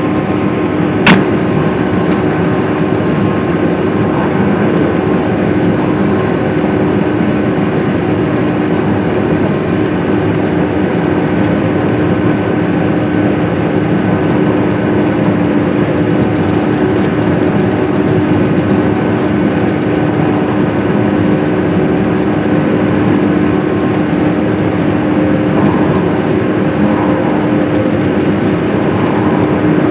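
Case IH self-propelled swather's four-cylinder engine running steadily while cutting hay, with a constant hum. A single sharp click about a second in.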